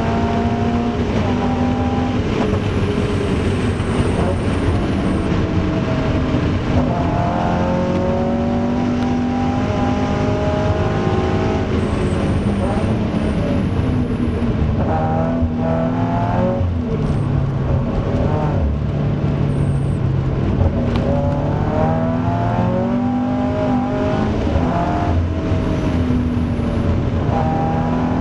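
Toyota GT86's FA20 flat-four engine heard from inside the cabin at racing speed on a wet track. It is revved hard to near 7,000 rpm under full throttle, with its pitch climbing through the gears and falling on lifts, braking and downshifts for the corners. Road and tyre noise runs underneath.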